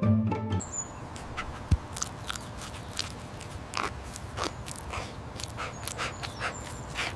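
Background music cuts off about half a second in, then a dog makes mouth noises that come as irregular sharp clicks, a few a second, over a steady hiss.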